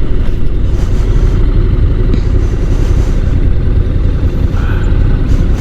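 Motorcycle on the move: a loud, steady rumble of wind on the microphone with the engine running underneath.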